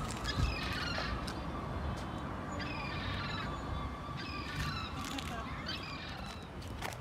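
Bird calls in four short bursts, each a quick run of several high notes, with a faint steady high tone underneath.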